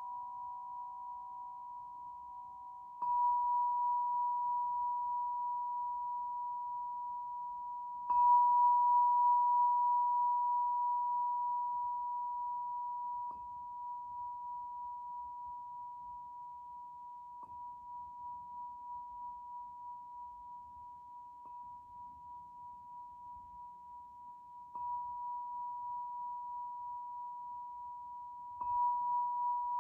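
A tuning fork ringing with a high, pure tone. It is struck again seven times at intervals of about four seconds, each strike starting with a light tap and fading slowly. A second, lower tone fades out during the first few strikes.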